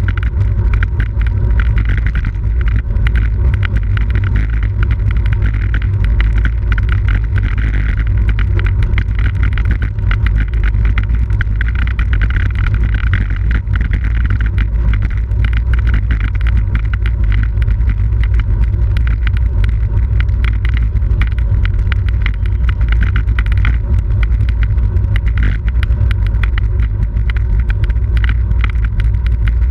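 Wind rushing over a bike-mounted camera's microphone while riding at race speed, a loud steady low rumble, with the rattle and ticking of the road bike running over the pavement.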